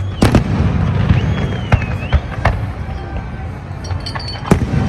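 Fireworks bursting overhead, a series of sharp bangs over a low rumble, with a wavering whistle-like tone about a second in.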